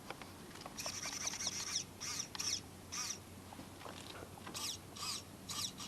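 Small birds chirping, a series of short, high chirps that sweep downward in pitch, repeating every half second or so.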